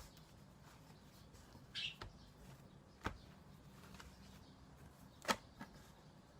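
Quiet handling of pastry dough: a few short, soft clicks and taps as the sheet is rolled and pressed shut, over a faint steady hum, with one brief high chirp about two seconds in.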